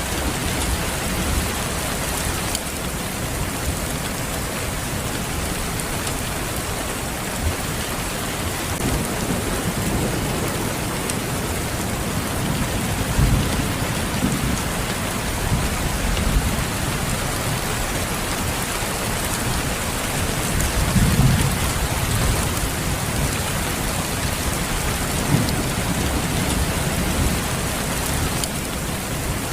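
Steady rain falling, with low rumbles of thunder swelling up several times.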